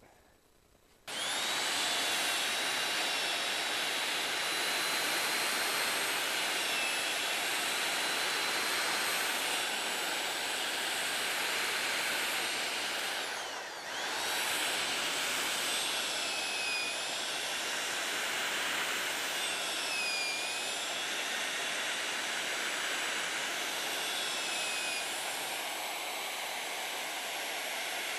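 Electric drill boring a hole through a fruit tree branch for a threaded rod: a steady high whine that starts about a second in, cuts out briefly near the middle and starts again, its pitch dipping a few times as the bit bites into the wood.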